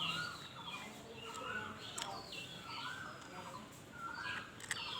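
Birds calling repeatedly in the background, short arching calls one after another, with a few faint clicks of small plastic parts being handled.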